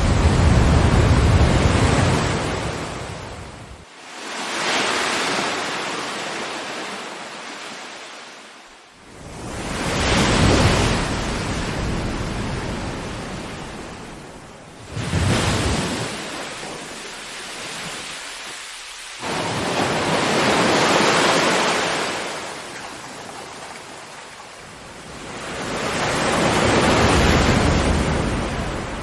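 Ocean waves breaking and washing ashore, rising and falling in slow surges of hissing surf about every five seconds, a few of them breaking suddenly.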